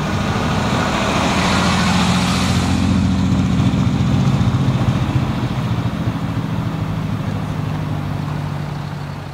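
Ferrari 275 GTB's V12 engine pulling away and driving off at low speed, a steady, deep exhaust note that swells over the first couple of seconds and eases slightly near the end.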